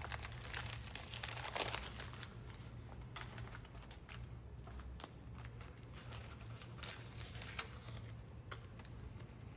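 Tape being peeled and pulled off a carbon-fibre rigger, crackling and crinkling in irregular bursts, busiest in the first two seconds, over a steady low hum.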